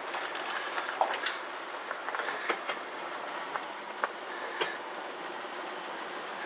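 A 1965 Ford Galaxie 500 rolling slowly on a test drive, heard from inside the cabin: a steady rumble of engine and tyres with scattered clicks and knocks.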